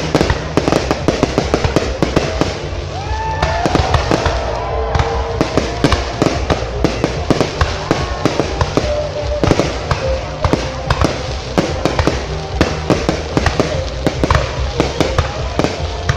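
Fireworks display: a continuous barrage of sharp cracks and pops in quick succession, with no break.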